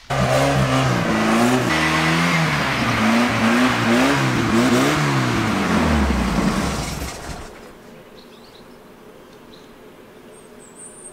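VW Golf Mk2 engine revved repeatedly, its pitch rising and falling several times, then dropping away to a low level about seven seconds in.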